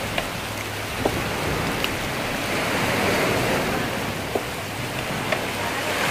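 Steady wash of rain and gentle surf, with a few sharp drips ticking close by. The noise swells briefly about three seconds in.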